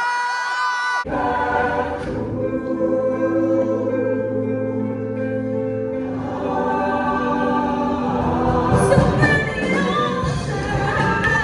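A show choir singing in harmony: long held chords, with the low voices coming in about a second in, then moving lines after about six seconds.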